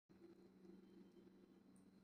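Near silence: room tone with a faint steady low hum and one soft high tick near the end.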